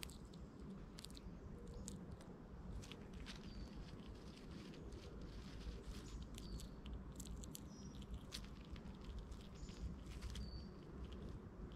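Squirrel chewing and gnawing on food close up: a scatter of small crunches and sharp clicks. Short high bird chirps come every second or two behind it.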